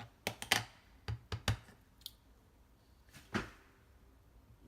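A few quick light clicks and taps of small craft supplies being handled on a desk, with one softer knock a little past three seconds in.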